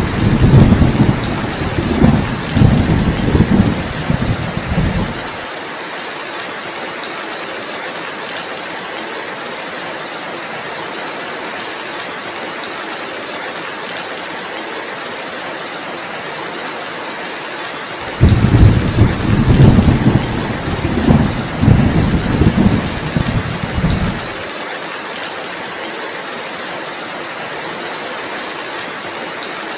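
Steady heavy rain with two long rolls of thunder, the first lasting about five seconds from the start, the second starting about 18 seconds in and lasting about six seconds; each cuts off abruptly.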